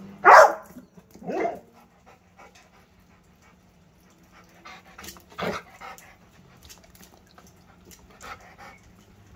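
A dog giving short, sharp vocal sounds: a loud one right at the start, another about a second later, and a softer one about five and a half seconds in, with small clicks and snuffles between.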